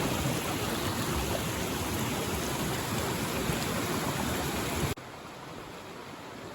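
Mountain stream running, a steady wash of water noise; it drops suddenly to a quieter wash about five seconds in.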